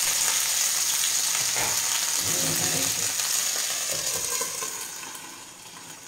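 Tuna pieces sizzling in hot oil in a frying pan. The sizzle drops to a much quieter hiss about five seconds in, once the glass lid is set on the pan.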